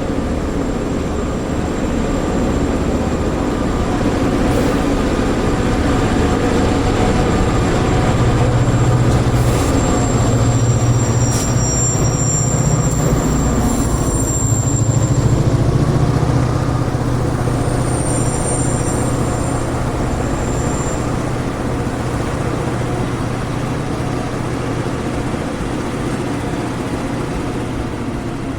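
A vehicle running steadily: a constant low engine hum under road or rail noise, with a few thin, high-pitched squeals around the middle.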